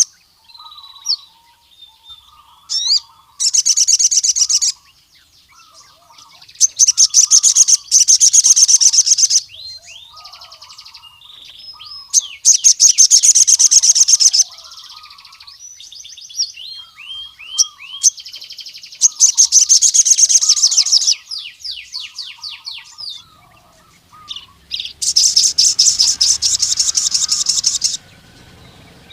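Male ruby-cheeked sunbird (sogon) in full song: five loud, very fast high trills of one to three seconds each, with soft short chirps and quick rising notes in between.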